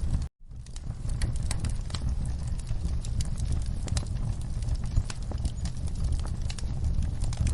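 Wood fire crackling and popping over the low, steady rumble of the flames. The sound cuts out for an instant near the start and fades back in.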